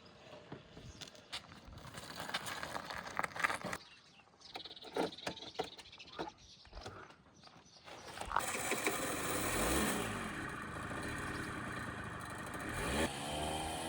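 A vehicle driving over a rough forest track: rattles and knocks for the first several seconds, then its engine running steadily with road noise, rising in pitch briefly near the end.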